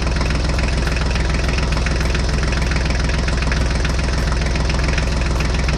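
Tractor engine sound running steadily with an even, low chugging pulse.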